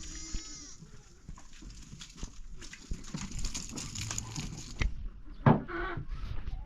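Sheep bleating, once at the start and again a little after five seconds in, with a stretch of rustling and shuffling in between. A sharp knock just before the second bleat is the loudest sound.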